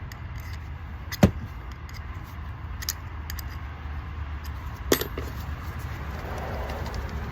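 Sharp clicks and small knocks of a hand tool against the parts of a car starter motor as an internal piece is worked loose, the loudest about a second in and another near five seconds, over a steady low hum.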